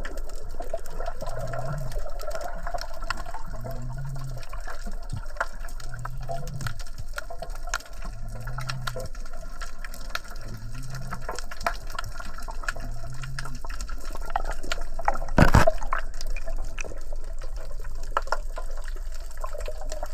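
Sloshing, gushing sea water, with a low pulse recurring about every two seconds and one loud thump about fifteen seconds in.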